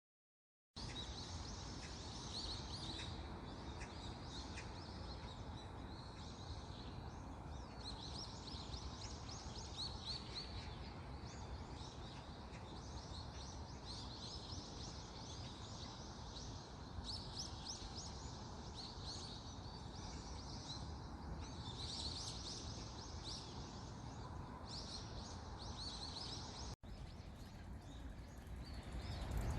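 Small birds chirping over and over in short high clusters, over a steady low outdoor rumble. The sound drops out for an instant near the end, and the low rumble then grows louder.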